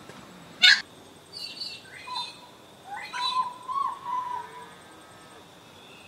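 Backyard birds calling: one loud, harsh note about half a second in, then a run of short chirps and a wavering call that fade out after about four and a half seconds.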